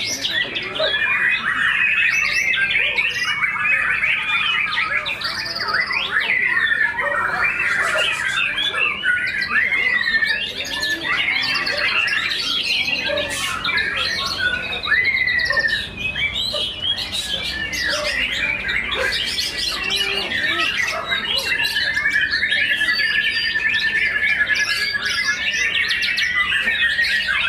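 White-rumped shamas (murai batu) singing without a break: a dense mix of varied whistles, chatters and sliding notes. A long, even trill starts a little over twenty seconds in and runs nearly to the end.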